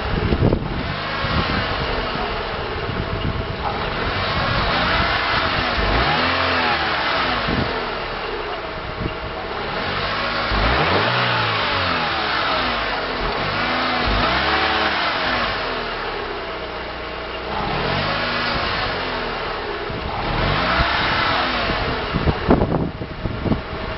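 Daewoo Nubira's 1.6-litre DOHC 16-valve four-cylinder engine (A16DMS) being revved repeatedly, its pitch rising and falling back every few seconds. Near the end there is a burst of sharp, irregular crackling knocks.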